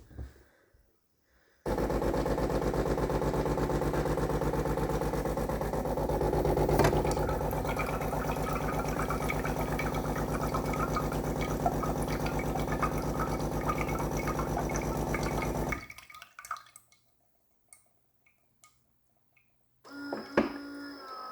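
Coffee machine's vibratory water pump running with a fast, even buzzing pulse for about fourteen seconds, then stopping. It draws water from the tank only while the tank is held pressed against its faulty connector.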